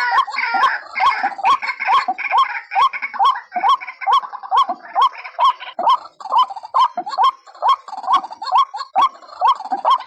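White-breasted waterhen (ruak-ruak) call played as a trapper's lure: a steady run of short, hooked notes, about three a second. A higher, overlapping chatter runs under them for the first few seconds.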